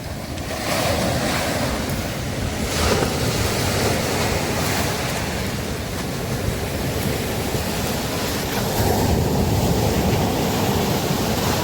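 Sea waves breaking on a beach: a steady wash of surf that swells and eases, louder about a second in, near three seconds and again from about nine seconds.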